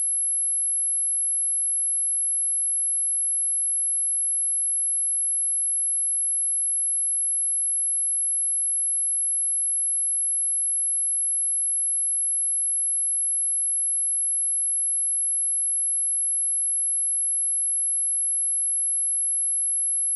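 A single steady 11051 Hz sine-wave test tone, a continuous high-pitched whistle at constant pitch and level.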